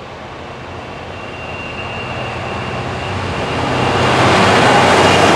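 A train approaching and growing steadily louder as it nears.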